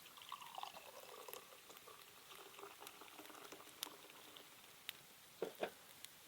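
Beer being poured from a just-opened can into a cup, the liquid running and the foam fizzing, faintly. Two short light knocks follow near the end.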